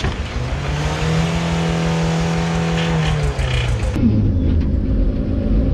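Suzuki Vitara 4x4's engine revving hard, held high for about two seconds, then dropping back. About four seconds in, the sound cuts to an engine running lower with short revs.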